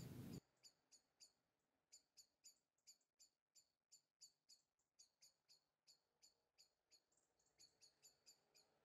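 A small bird chirping faintly over and over, short high chirps about three a second, running a little quicker near the end.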